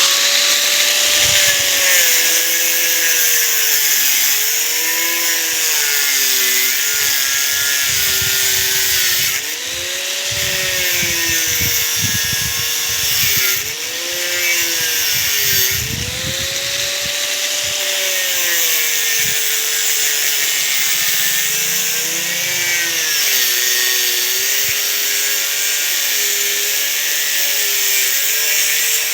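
Electric power cutter running and cutting through steel rebar. Its motor pitch sags and recovers again and again as the blade bites into the bar, over a steady hiss of metal being cut.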